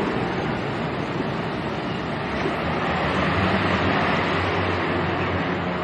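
A DHC-6 Twin Otter's twin turboprop engines drone over a steady rush of air noise on a low approach. The low engine drone grows stronger about halfway through.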